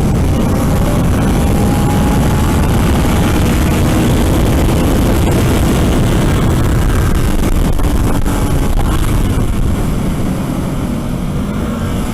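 Wind rushing over a helmet-mounted microphone at track speed, with the Kawasaki Ninja 650R's parallel-twin engine running underneath, its pitch gliding up and down with the throttle. The noise eases slightly near the end.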